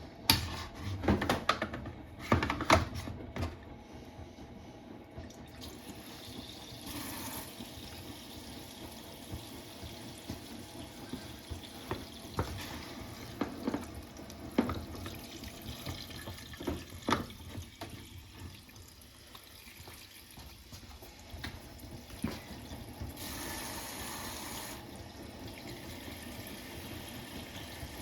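Hotpoint WMFUG942 washing machine running its Autoclean cycle, water splashing and sloshing in the tumbling drum. A run of sharp knocks comes near the start, and two short rushes of hiss come about seven seconds in and again near the end.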